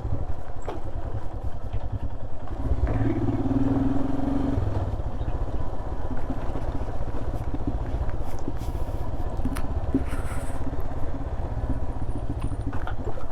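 Royal Enfield Himalayan's single-cylinder engine running steadily on a rough road, with a few short squeaks from the front brake, which the rider suspects come from mud in it.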